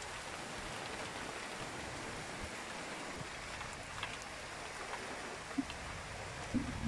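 Heavy rain falling steadily in a downpour, hissing on wet pavement, with scattered drips close by. Near the end come two brief low knocks about a second apart.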